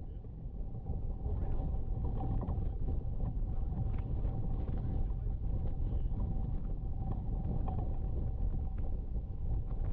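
Strong wind buffeting the microphone as a low, steady rumble, with a faint steady whistle-like tone running through it.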